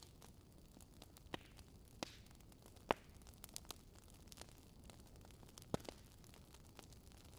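Campfire crackling: scattered sharp pops and snaps at irregular intervals, the loudest about three seconds in, over a faint low hiss.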